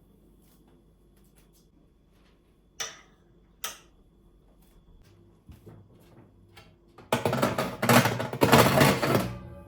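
Household cleaning handling sounds: faint clicks and two sharp clicks, then about two seconds of loud, rough rustling noise near the end.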